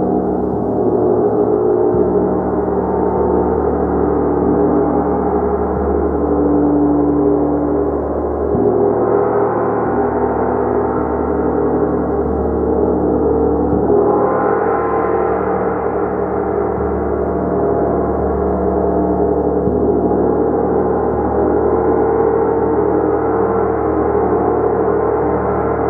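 Gong played continuously, a sustained, dense wash of ringing overtones that never dies away. Fresh strikes brighten and swell it about a third of the way in and again about halfway through.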